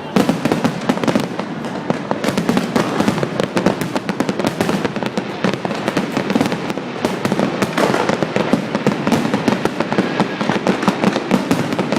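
Large fireworks display: a dense, continuous run of overlapping bangs and crackles, many each second, with no pause.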